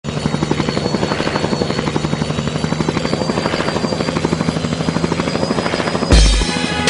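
Helicopter rotor beating in a steady, fast chop over an engine hum. A heavy low boom comes about six seconds in, as music begins.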